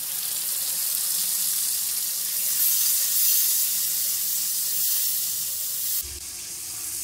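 Wet cashew-and-onion paste sizzling in hot ghee in a wok, a steady hiss that drops abruptly to a quieter sizzle about six seconds in.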